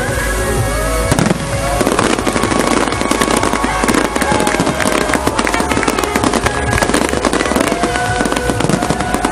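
Aerial fireworks display going off continuously: a dense stream of rapid pops and bangs from bursting shells and rising comets.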